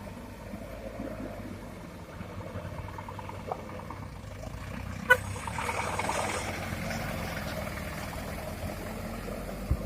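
Heavy diesel machinery running steadily: excavator and dump truck engines at work. About halfway there is a single sharp clank, after which the sound grows louder for a couple of seconds.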